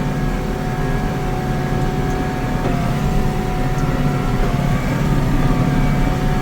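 McCormick CX105 tractor's diesel engine running steadily while driving along in fourth gear, with a thin steady whine over the engine note.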